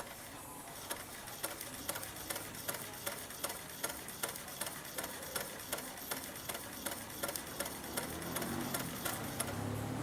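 Old standard sewing machine running slowly, its mechanism clicking about three times a second; a low hum begins to rise near the end.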